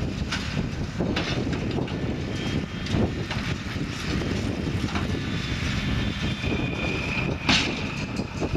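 Massey Ferguson tractor and McHale baler working, a steady engine rumble with scattered knocks from the machinery. About six seconds in a thin high whine comes in and holds, and a sharp knock, the loudest sound, comes near the end.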